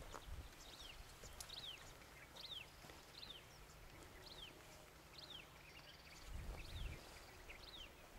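A bird calling faintly over and over, each call a short note falling in pitch, about every two-thirds of a second. A brief low rumble comes about six and a half seconds in.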